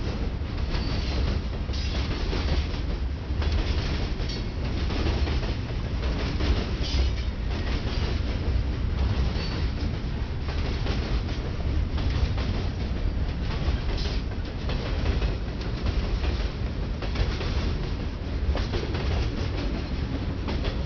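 Freight train cars (covered hoppers and boxcars) rolling steadily past close by: a continuous rumble of steel wheels on rail, with a stream of clicks as the wheels cross rail joints.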